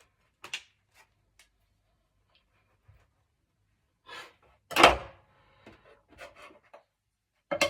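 A knife cutting a large loaf of bread, with clatter from handling it on the board or plate. There is a light click near the start, a short scraping stroke a little after four seconds, then the loudest sound, a thump, just before five seconds, followed by a few small taps.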